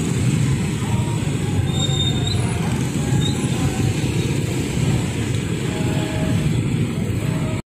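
Train rolling past at a level crossing: a steady, loud rumble of wheels on rail with a few short faint high squeaks. It cuts off suddenly near the end.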